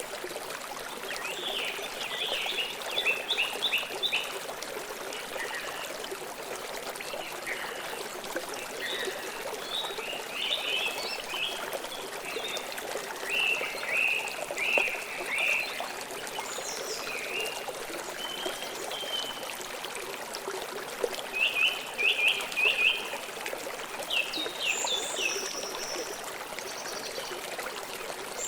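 Steady rush of a flowing river, with birds chirping above it in short bursts of rapid notes every few seconds.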